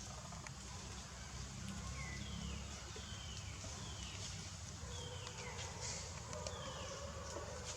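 An animal's short high calls, each falling in pitch, repeated about once every three quarters of a second from about two seconds in, over a steady low rumble.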